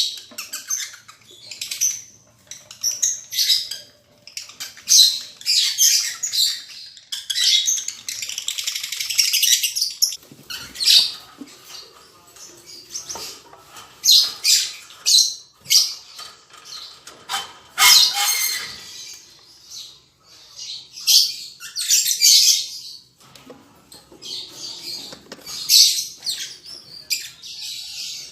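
Lovebirds giving shrill chirps and squawks in quick repeated bursts, with a denser run of calls about eight seconds in.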